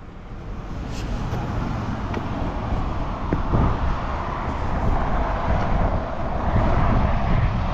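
Road traffic noise that grows steadily louder over several seconds, as of a vehicle approaching, over a low rumble of wind on the microphone.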